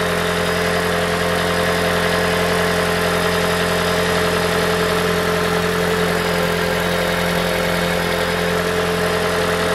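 2012 Toyota Prius v's 1.8-litre 2ZR-FXE four-cylinder engine idling steadily, with no heat-shield rattle now that a new exhaust heat shield is fitted tightly.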